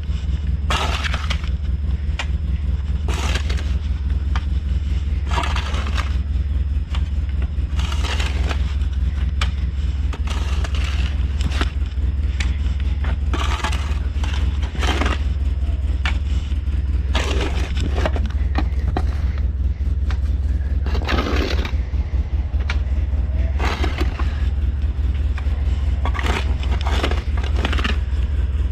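Engine of an old snow-plowing vehicle running steadily under load, with irregular crunching and scraping noises every second or two as it plows heavy snow.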